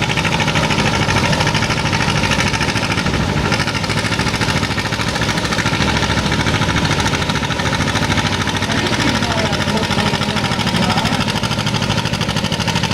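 A modified pulling tractor's engine idles steadily, loud and even, with a fast, rough firing beat.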